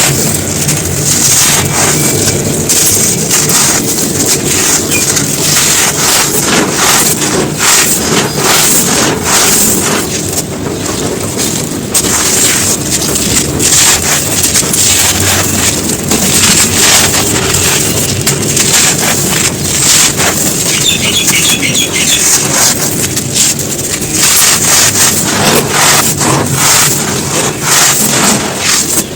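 Dense crunching and crumbling of brittle dry chunks, many small crackling crunches close together, with no pauses.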